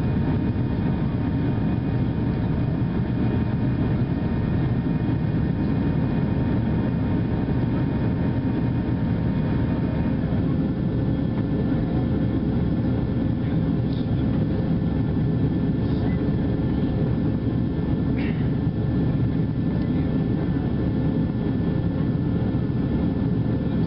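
Steady cabin noise inside a Boeing 737-700 climbing after take-off: the even drone of its CFM56-7 turbofans and rushing airflow. A faint thin tone in it stops about ten seconds in.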